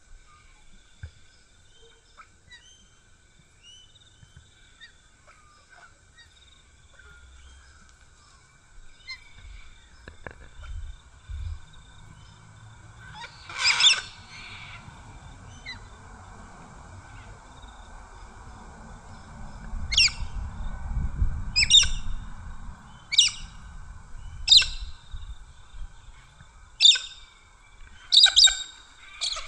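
Birds calling: faint small chirps at first, then about seven short, loud calls spaced a second or more apart through the second half. A low rumble runs underneath through the middle.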